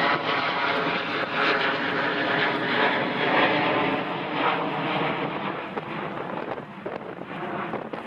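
Commercial airliner's engines passing close by: a loud, steady drone with several held tones in it. It fades gradually through the second half.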